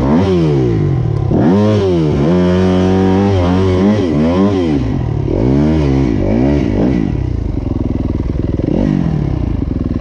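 Motocross dirt bike engine revving up and down over and over as the throttle is opened and closed. It holds high for about a second near the start, then drops to a lower, steadier running note about seven seconds in, with one more short rev near the end.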